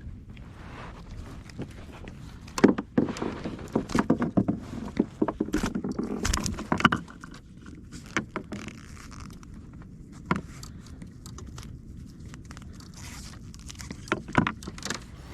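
Irregular knocks, rattles and scrapes of fishing gear being handled aboard a kayak, busiest in a flurry a few seconds in, then a few single knocks.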